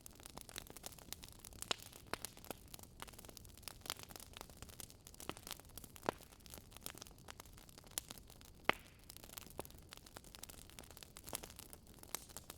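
Wood fire crackling faintly, with irregular small pops several times a second and one sharper pop near the end.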